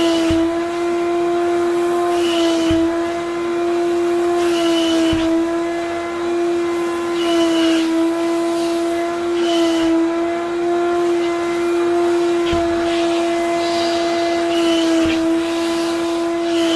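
Wet vacuum cleaner running with a steady high motor whine. Roughly every two and a half seconds a surge of hissing suction comes in and the pitch dips slightly.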